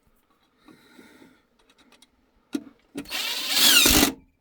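Ladder sections being handled: a sharp knock, then a loud scraping rasp lasting about a second near the end.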